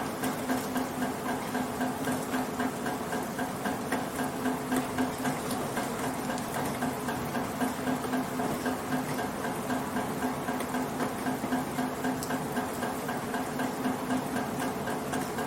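Rain falling, with water dripping steadily from a gutter in a fast, regular rhythm over a steady hiss, with a low, humming ring underneath.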